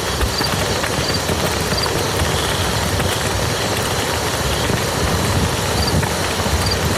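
Steady rain falling on a muddy field: a dense, even hiss of drops with many small splashes, unchanging throughout.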